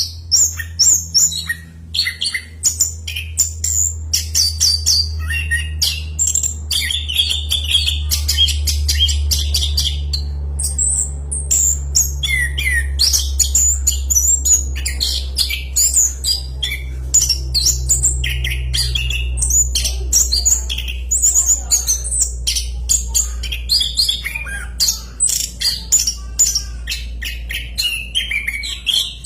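Chestnut-capped thrush (anis kembang) singing a long, unbroken, loud song of rapid varied phrases: high whistles, quick trills and sharp clicky notes following one another with hardly a pause. A steady low hum runs underneath.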